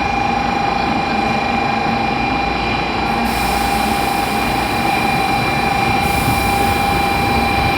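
Steady running noise of an N700S Shinkansen train heard from on board: an even rumble with a steady high whine held throughout.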